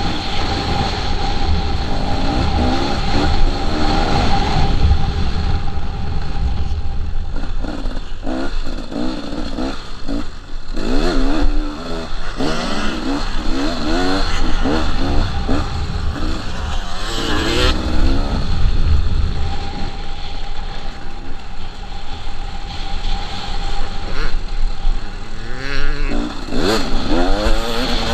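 KTM 300 two-stroke dirt bike engine being ridden hard, revving up and down over and over as the rider works the throttle, with a steady rush of noise underneath. Quick runs of rising revs come through the middle and again near the end.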